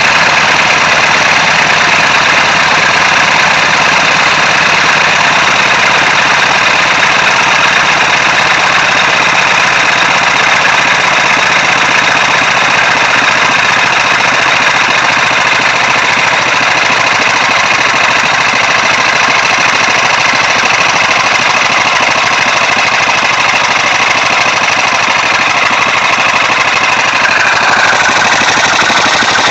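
Briggs & Stratton engine converted to run on compressed air, fitted with a light aluminum lawnmower flywheel, running steadily at very high speed. It is the fastest it has run.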